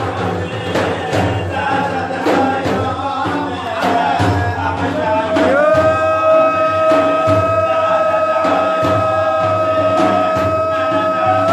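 Religious praise song (madih): singing over a steady percussion beat. About halfway through a single long note is held steady.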